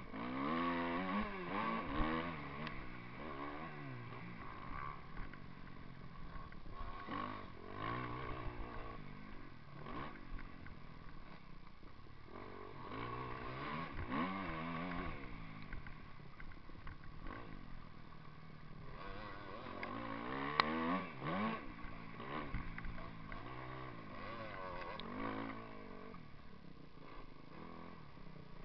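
Motocross dirt bike engine revving up and falling back again and again, in surges every few seconds as the bike accelerates and backs off around the track.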